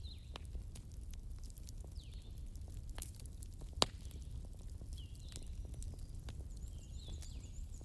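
Wood fire in a fireplace crackling, with scattered pops over a steady low rumble; the sharpest pop comes about four seconds in. Short high chirps recur every second or so.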